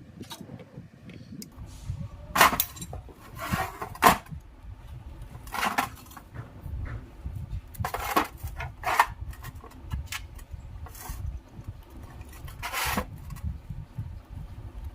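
Irregular clinks and knocks of hand tools and metal parts being handled, about seven sharp strikes spread unevenly, over a low steady rumble.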